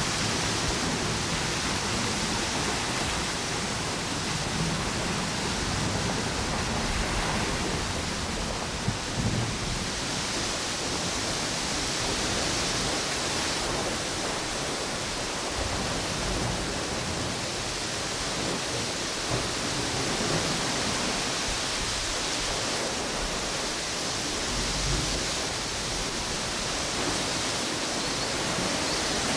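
Ocean waves washing onto a beach mixed with strong wind blowing through palm trees: a steady rushing noise that swells and eases slowly. A couple of brief thumps come about nine seconds in.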